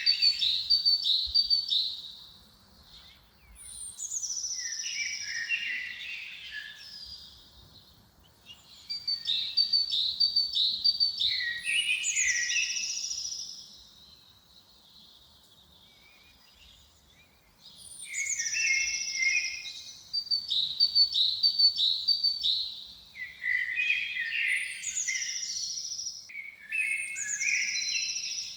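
A songbird singing in the open: short, high, complex song phrases of two to three seconds each, built of quick note series and falling sweeps, repeated after pauses of a few seconds, with a longer gap in the middle.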